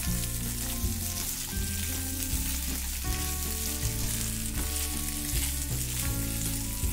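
Potato cubes and crushed peanuts sizzling in hot oil in a nonstick pan as a silicone spatula stirs them: a steady frying hiss. A light background tune with a stepping bass line plays under it.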